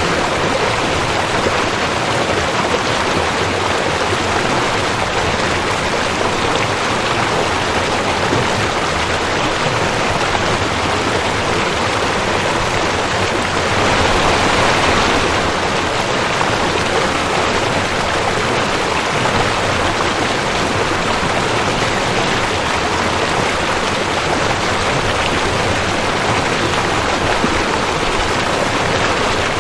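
Rushing creek: water running steadily over rocks, a continuous rushing that swells slightly about halfway through.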